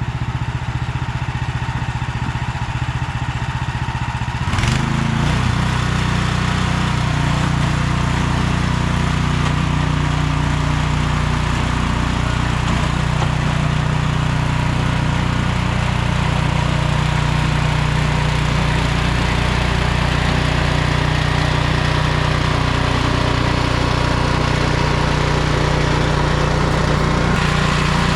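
Ariens snowblower engine running steadily. About four and a half seconds in it steps up and gets louder, then holds steady.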